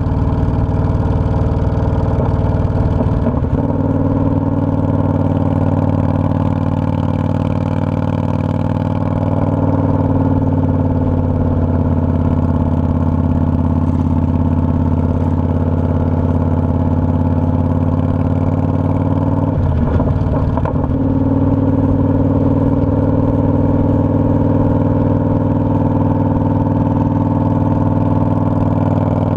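Motorcycle engine running steadily under way, heard from a camera mounted on the bike. Its note shifts briefly about 3 seconds in and again around 20 seconds in.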